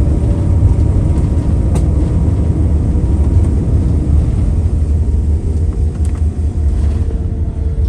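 Steady, loud low rumble of a moving vehicle, with a faint steady hum above it.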